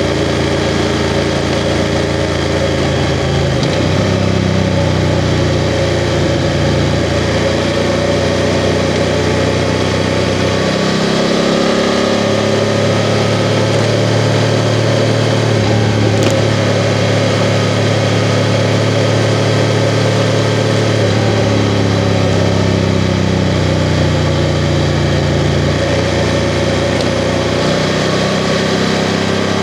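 BMW F 750 GS's 853 cc parallel-twin engine running under way, its note shifting in pitch several times as the throttle and revs change, over steady road noise.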